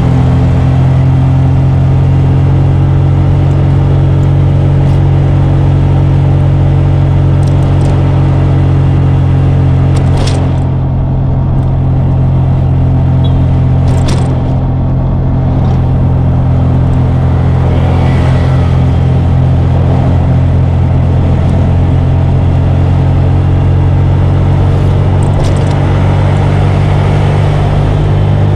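Steady low engine drone and road noise of a vehicle driving, heard from inside the cabin. A few brief sharp clicks or knocks come through, one about ten seconds in and another near fourteen seconds.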